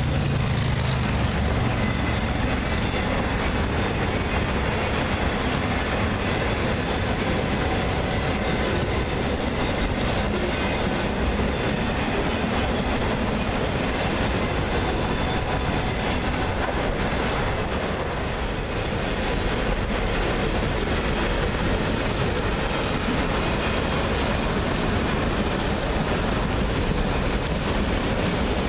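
Freight train rolling past at close range: a steady rumble of wheels on rail with clicks from the rail joints and faint wheel squeal at times.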